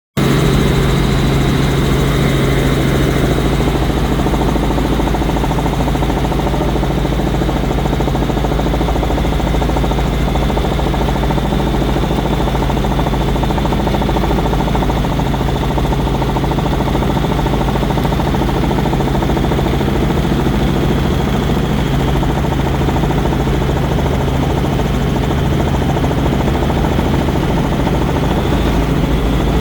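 Helicopter running steadily: a loud, constant drone with a strong low hum that holds the same level throughout.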